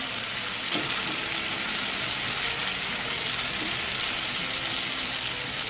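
Chopped tomatoes and onions frying in hot mustard oil in a wok, a steady sizzle while they are stirred with a wooden spatula.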